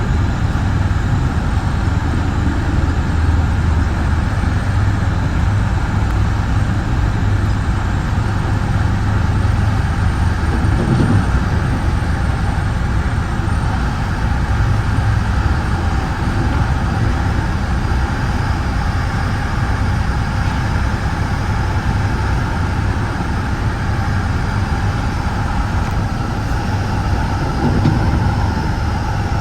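Steady rumble and rail noise of a Metra bi-level commuter car rolling along the track at speed, heard from inside the front cab car.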